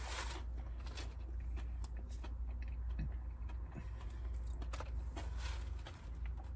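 Quiet chewing with small clicks and rustles of handling food and a takeout container, over a steady low hum in a car's cabin.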